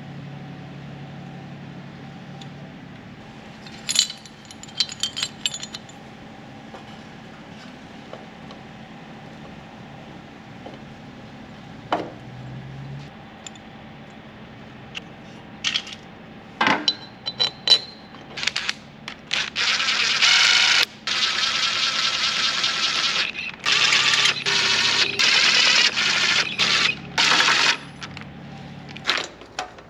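Hand tools on a small mower engine: scattered metal clinks and knocks, then, from about two-thirds in, several bursts of rapid metallic ratcheting a second or more each, as a ratchet wrench runs the bolts down on a freshly re-gasketed cylinder head.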